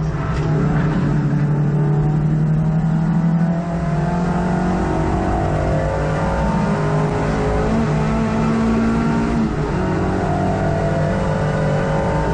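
Hot hatch race car's engine heard from inside the cabin, running hard at racing speed; the engine note climbs and drops repeatedly as the car accelerates, lifts and changes gear.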